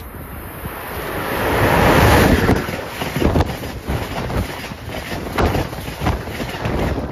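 Amtrak passenger train passing through at high speed. A rush of noise builds as it approaches and is loudest about two seconds in, then the cars run past with a steady roar broken by sharp knocks from the wheels, falling away suddenly near the end as the train clears.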